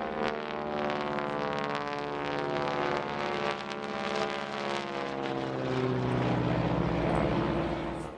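Piston-engined propeller aircraft flying past, its engine and propeller note running steadily with a slight drift in pitch. It grows louder past the middle and then cuts off abruptly.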